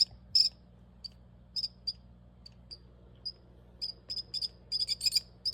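Baby bird cheeping: short high chirps, one or two a second at first, coming quicker and closer together near the end.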